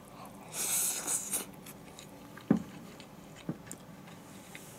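A person chewing a mouthful of rice with mushroom and fried-tofu stir-fry, with a short rush of noise about a second in and two sharp clicks near the middle.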